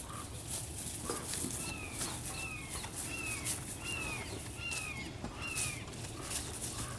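A bird calling six times in a row: a short, falling note about every three quarters of a second.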